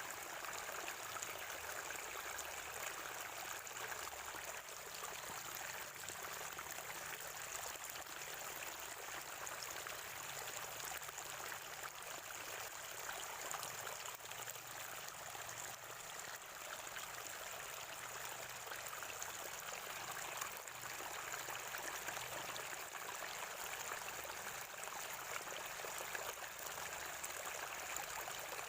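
Spring water flowing and gurgling steadily, with no pauses or changes.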